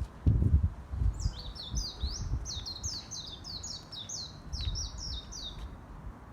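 A songbird singing a fast run of high, down-slurred notes, about four a second, starting about a second in and stopping near the end. A low rumble, likely wind or handling noise, is loudest near the start.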